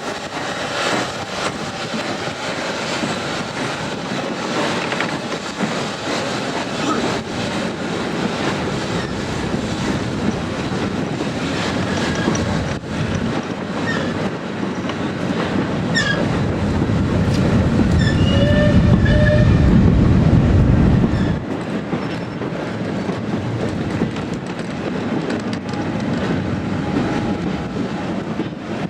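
Goods train hauled by the 0-6-0 steam locomotive SE&CR O1 No 65 moving off, its wagons running over the rails with a few brief high wheel squeals. A heavier rumble builds to its loudest about 17 to 21 seconds in, then eases.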